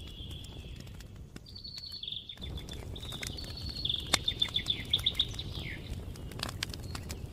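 Songbird singing over a crackling campfire: high chirping notes, with a fast trill of repeated notes in the middle seconds, while the fire gives off scattered sharp pops and crackles.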